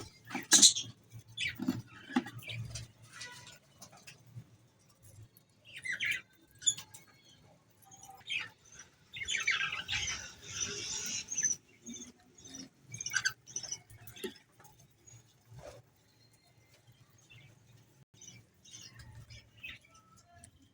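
Cream cockatiels chirping and chattering in short scattered calls, mixed with scratchy scuffling and patter, with a longer rustling stretch about nine to twelve seconds in.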